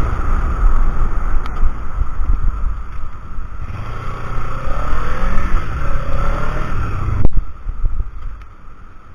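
Wind buffeting the microphone of an action camera on a moving Kawasaki Ninja 300, with the motorcycle's running noise underneath. A sharp click comes about seven seconds in, after which the sound drops much quieter.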